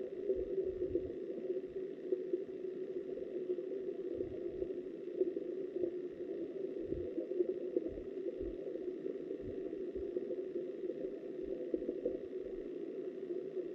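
Flowing river water heard underwater through the camera's housing: a steady muffled rush, with scattered soft low thuds.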